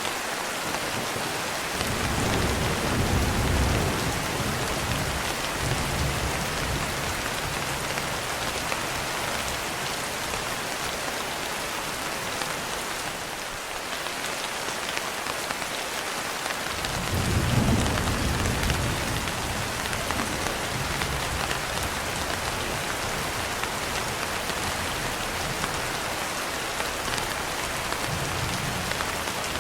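Steady rain, with two rolls of low thunder rumbling for a few seconds each: one about two seconds in, another a little past the middle.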